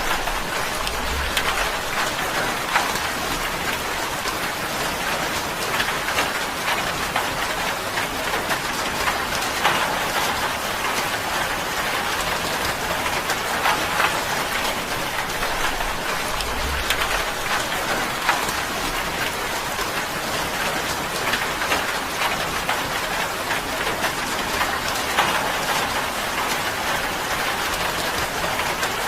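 Steady rain drumming on a tin roof: a dense, even patter of drops hitting the metal.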